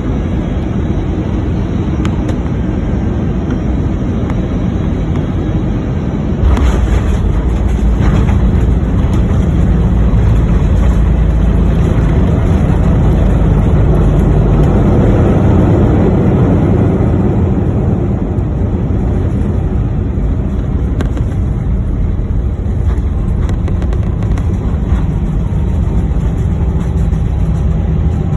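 Airbus A319 heard from inside the cabin, touching down with a sudden thump about six seconds in. A heavy low rumble of the landing rollout follows, swelling for several seconds and then slowly easing as the airliner decelerates on the runway.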